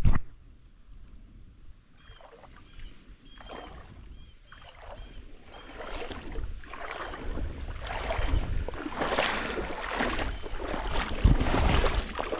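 River water splashing and sloshing around a wading angler's legs, growing louder over the second half, with a thump near the end.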